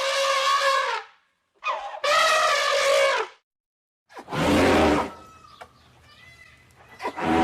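Elephant trumpeting: a series of loud, brassy calls about a second long with short gaps between. The one in the middle, about four and a half seconds in, is harsher and noisier, over a low rumble.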